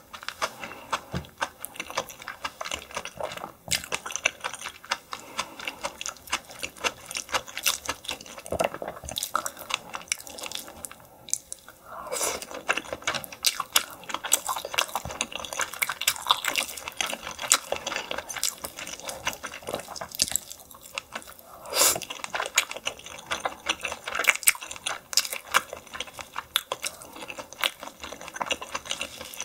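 Close-miked wet chewing and mouth sounds of a person eating stingray: a dense run of small clicks and squelches, with a few louder crunches.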